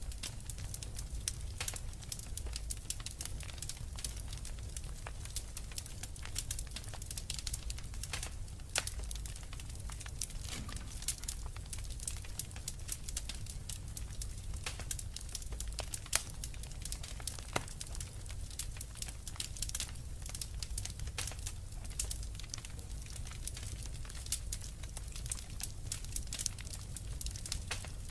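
Wood fire burning in a fireplace, crackling with rapid, irregular snaps and pops over a low steady rumble, with a few louder pops now and then.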